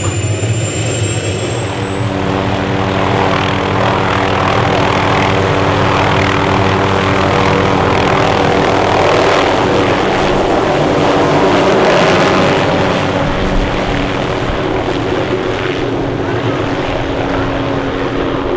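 A small training aircraft's engine running steadily. It grows louder to a peak about twelve seconds in, then eases slightly.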